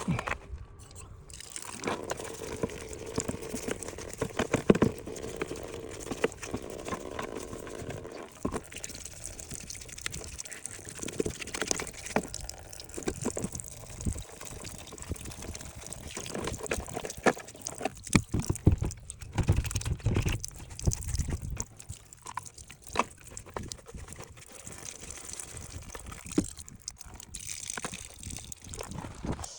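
Water running and trickling, mixed with scattered clicks and knocks from handling plastic parts.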